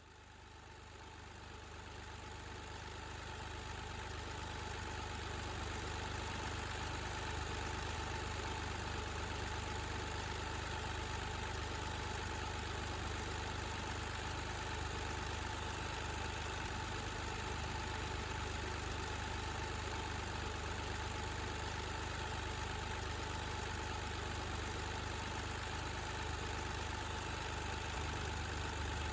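Car engine idling steadily, fading in over the first few seconds and then holding an even level.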